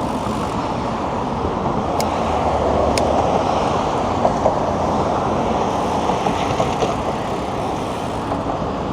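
Steady noise of car traffic passing close by on a city bridge, with two faint ticks about a second apart near the start.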